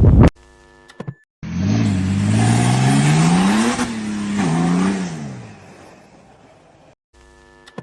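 A motor vehicle's engine revving up, climbing in pitch, dropping briefly and climbing again, then fading away.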